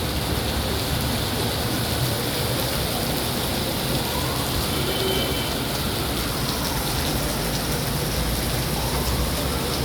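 Heavy rain pouring steadily: a dense, even hiss of a downpour on the street.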